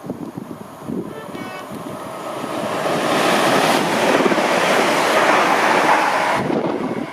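A train passing at speed through the station: a rushing noise that builds, stays loud for a few seconds, then drops off sharply about six and a half seconds in, with wind buffeting the microphone.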